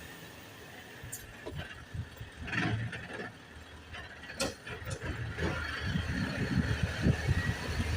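Isuzu garbage truck running, its low engine rumble growing louder over the last few seconds, with scattered knocks and clatter.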